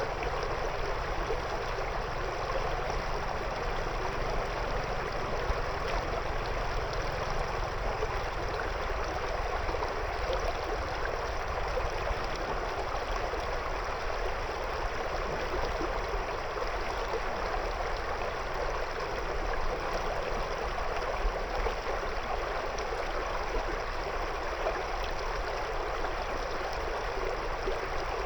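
River water flowing over and around stones, a steady, even rush without a break.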